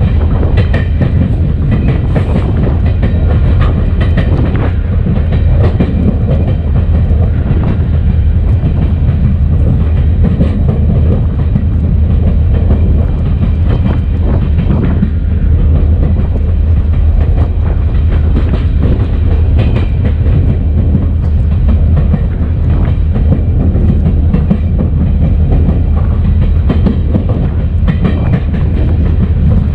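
EMD SD40-2 diesel-electric locomotive running down track, heard from outside on its short nose: a steady, loud rumble of its 16-cylinder two-stroke diesel and wheels on the rails, with some rail clatter.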